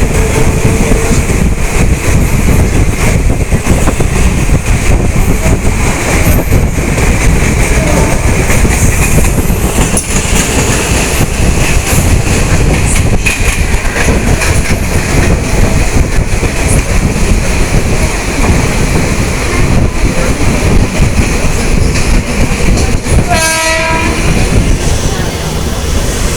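Mumbai local electric train running at speed: a loud, steady rumble and rattle of the carriages with wheels clacking over the rails. A short horn blast sounds near the end.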